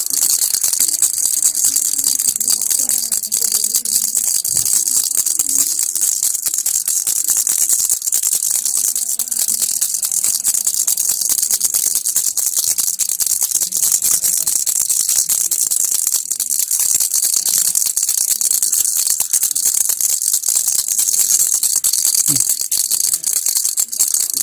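Baby rattle shaken continuously: a steady, unbroken stream of fine high-pitched clicks from the beads inside, with no pauses.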